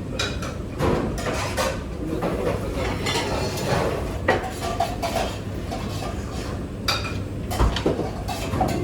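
Dishes, pots and cutlery clinking and clattering irregularly as they are handled during kitchen clean-up, over a steady low hum.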